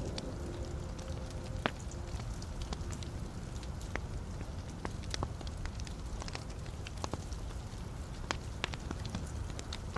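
Wood fire burning in a fireplace, crackling: frequent irregular sharp pops and snaps over a steady low rumble of the flames, with one louder pop a couple of seconds in.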